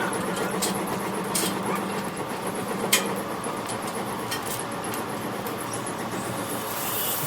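Steady machine hum and general noise of a heavy steel fabrication workshop, with a few sharp metallic clicks or knocks, the loudest about three seconds in.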